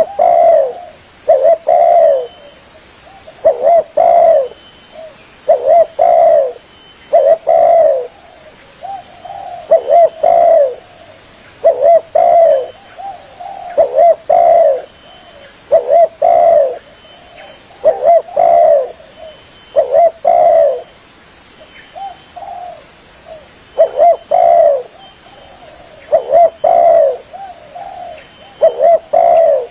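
Spotted dove cooing over and over, its low coo phrases repeating about every two seconds.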